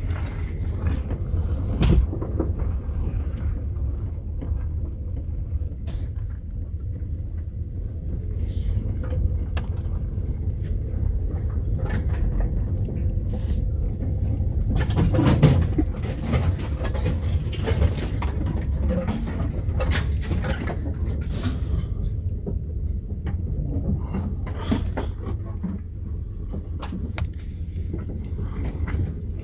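2008 Nissan Quest minivan driving slowly over a rough back road: a steady low rumble with scattered knocks and rattles, the heaviest cluster about halfway through. The van has a worn front hub bearing and a bad CV axle, and it sounds awful.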